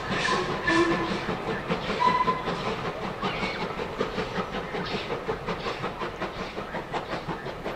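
Vintage railway carriages of a steam-hauled train rolling away over pointwork and rail joints, the wheels clicking in a steady rhythm. A couple of short squeals come about a second in and again about two seconds in.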